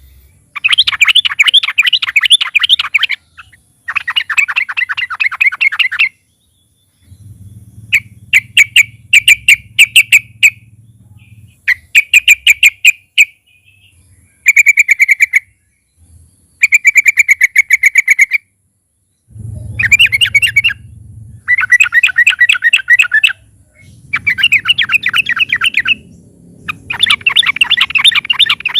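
Yellow-vented bulbul (trucukan) singing loudly: bursts of fast repeated notes, each lasting a second or two, with short pauses between bursts.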